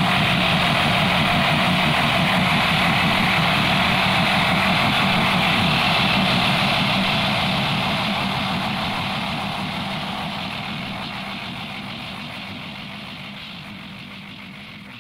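Train running sound effect, a steady rumble that fades away over the second half as the train draws off.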